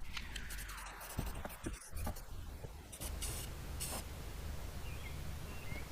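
Rust-Oleum aerosol spray paint can hissing in short bursts, with a couple of light clicks between them.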